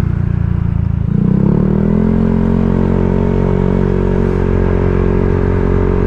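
Honda Vario 125 scooter's single-cylinder engine running through a TZM-style 'standar racing' aftermarket exhaust while riding. About a second in, the throttle opens and the engine note rises, then holds steady.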